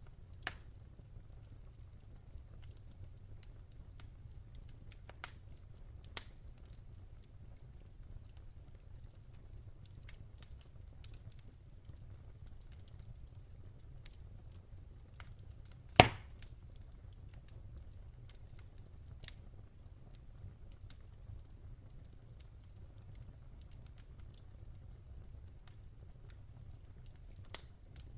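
Campfire crackling: scattered sharp snaps and pops at irregular intervals, with one much louder pop about halfway through, over a low steady rumble.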